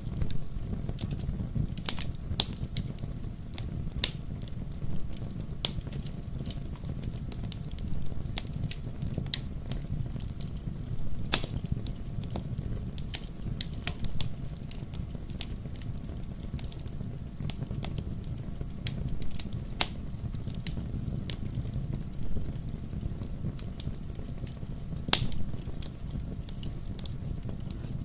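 Wood fire crackling, with sharp irregular pops over a steady low rumble.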